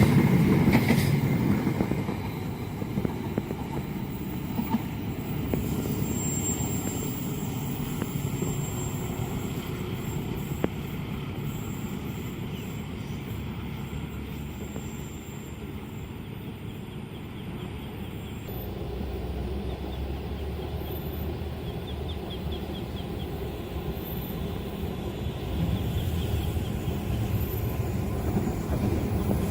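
A passing train's noise fades over the first two seconds, leaving a steady low rumble of traffic and distant rail noise. The rumble grows again near the end as another train comes closer.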